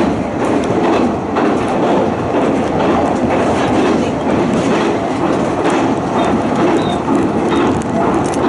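Running noise of a Hanshin Railway electric train heard from inside a passenger car at speed: a steady rumble with wheels clicking over the rails.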